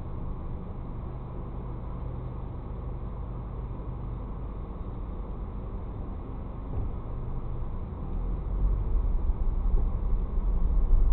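Car engine idling, heard from inside the cabin through a dashcam microphone: a steady low hum, swelling into a louder low rumble about eight seconds in as the car pulls away.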